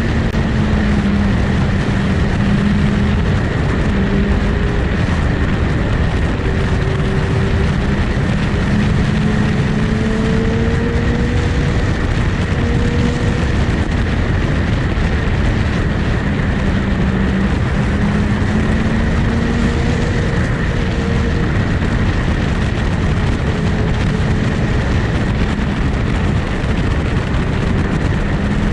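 Motorcycle running at a steady cruise under a loud, even rush of noise, its engine drone drifting slowly up and down in pitch.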